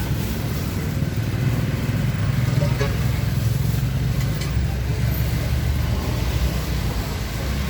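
Steady low engine rumble of a nearby motor vehicle, running throughout.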